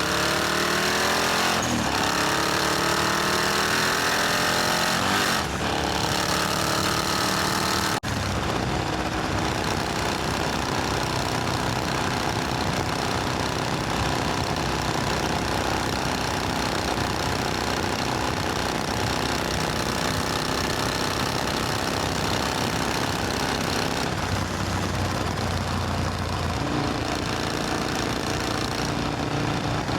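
Supercharged Triumph Thunderbird Storm's parallel-twin engine running under way, its pitch rising twice in the first several seconds as it revs through the gears, then changing abruptly about eight seconds in to a steadier drone.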